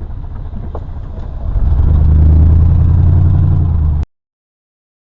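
Pickup truck engine running, then accelerating about a second and a half in as the truck pulls away, settling into a loud, steady low drone. The sound cuts off abruptly near the end.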